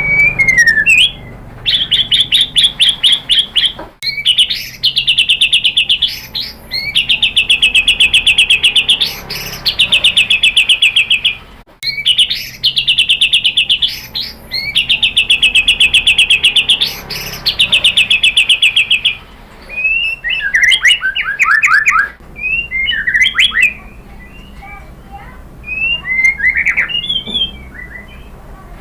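White-rumped shama singing: a series of long runs of rapid, evenly repeated trilled notes, one after another, then shorter, varied whistled phrases in the last third.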